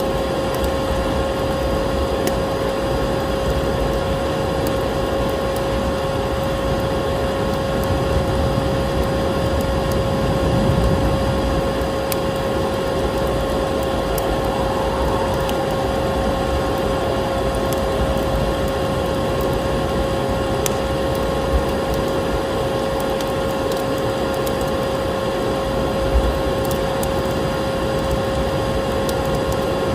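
Electric vacuum cleaner running steadily, a constant motor whine over a rush of air, with a wood fire crackling faintly underneath in a few scattered clicks.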